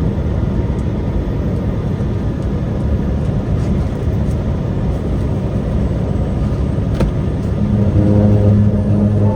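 A truck driving, with steady engine and road rumble. Near the end the engine's hum grows stronger and more tonal. There is a single sharp click a couple of seconds before that.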